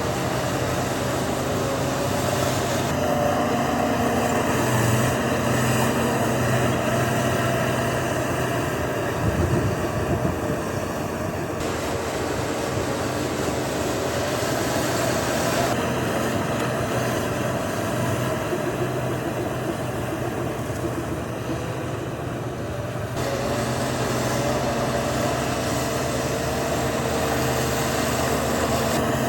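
Diesel engines of heavy earthmoving machinery running steadily, with a brief louder knock about nine to ten seconds in.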